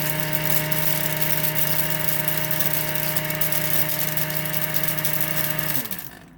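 Blender motor running steadily at high speed, shear-mixing a slurry of pencil graphite, dish soap and water. Near the end it is switched off: the hum falls in pitch and winds down to a stop.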